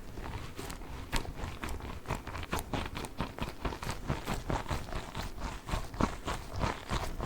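Hands squeezing and tapping a giant Orbeez water-bead ball close to the microphone, making a quick, uneven run of short squishy clicks and taps, several a second.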